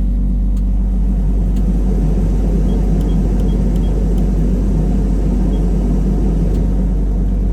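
Hitachi long-reach excavator's diesel engine running steadily, heard from inside the cab, with the cab heater's blower fan rushing over it.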